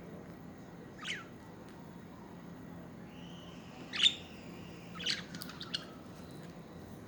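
Pet budgerigars chirping over a steady low hum: one sharp falling chirp, then a soft warble leading into a louder chirp about four seconds in, then a quick run of short chirps.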